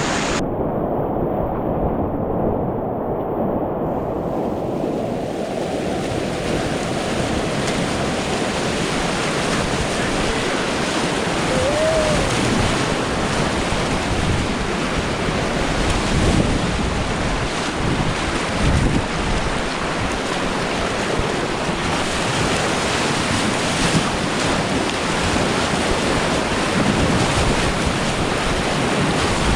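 Steady rush of river whitewater on a paddling run, heard close up, with wind noise on the microphone. It sounds muffled for the first few seconds, then the hiss of the water clears.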